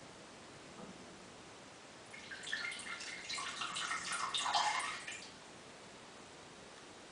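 A cat's urine stream trickling into the water of a toilet bowl for about three seconds, then stopping.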